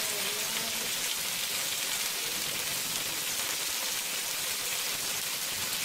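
Prawns frying in sauce in a wok, with a steady sizzling hiss.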